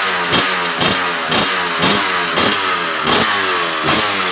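Motocross motorcycle engine revved in quick repeated throttle blips, about one every half second to three quarters of a second. The pitch jumps with each blip and falls away between them.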